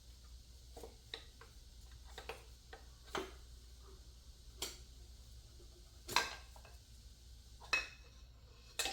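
Irregular metal clicks and clinks, about eight in all, from a piston and connecting rod being worked out of a Ford 351 Windsor V8 block. The loudest two come about six and seven and a half seconds in.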